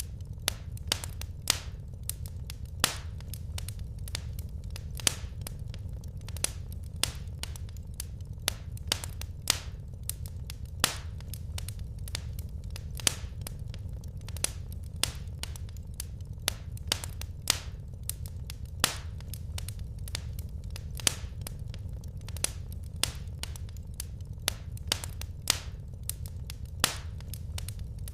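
Wood fire crackling in a fireplace: irregular sharp snaps and pops, a few a second and some much louder than others, over a steady low rumble.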